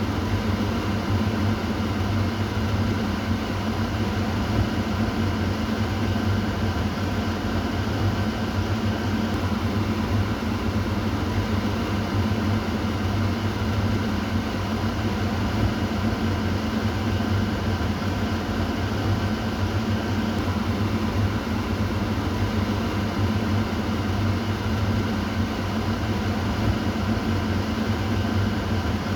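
Kitchen exhaust fan running steadily: an even rush of air over a low motor hum, unchanging throughout.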